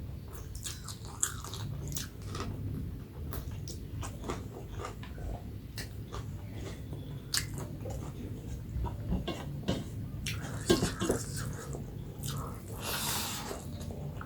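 Close-up eating sounds: chewing and biting on fried fish and curry, with irregular wet smacks and clicks, and a longer noisier smack near the end.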